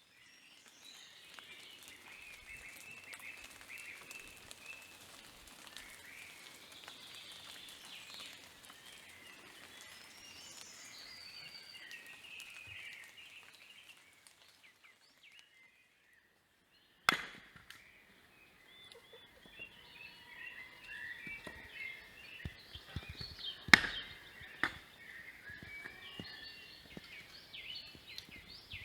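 Birds chirping in many short, overlapping calls. It breaks off for a few seconds about halfway and then resumes, with a few loud, sharp knocks, the loudest about two-thirds of the way in.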